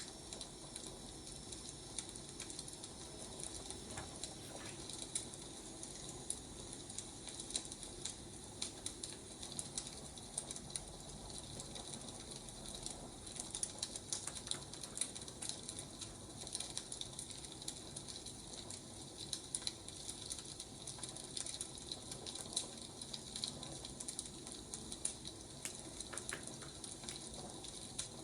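Wood fire crackling: a steady hiss with irregular small pops and snaps scattered throughout.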